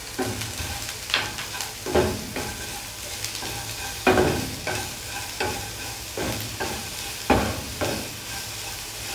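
Sliced onions, garlic and chillies sizzling in oil in a stone-coated non-stick frying pan, with a flat spatula stirring and scraping through them, a louder stroke about every second.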